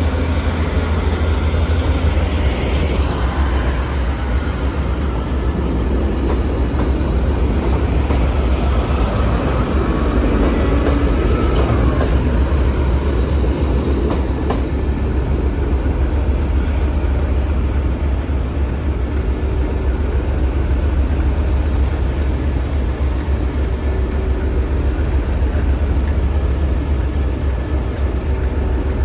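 ScotRail diesel passenger train running at the platform, a steady deep rumble with a few faint sliding tones.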